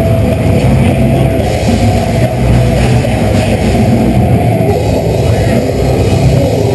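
Deathcore band playing live: distorted electric guitars and drum kit, loud and steady, bass-heavy with little treble.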